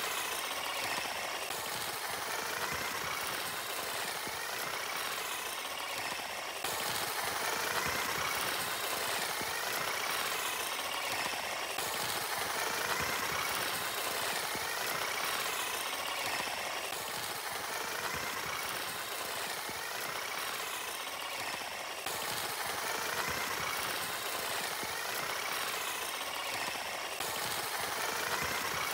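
A machine engine running steadily, with a few abrupt jumps in the sound where stretches are cut together.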